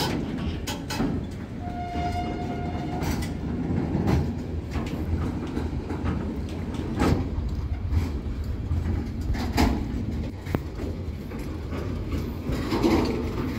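Freight train of hooded Shimmns steel-coil wagons rolling past close by: a steady low rumble of wheels on rail, broken by irregular clacks over rail joints. About two seconds in there is a brief high squeal lasting about a second.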